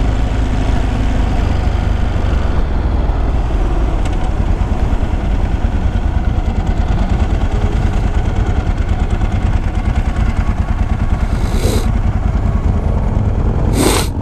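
Ducati sport bike's V-twin engine running as the bike slows from town speed to a near stop in traffic, with steady road and wind noise. Two short hiss-like noises near the end.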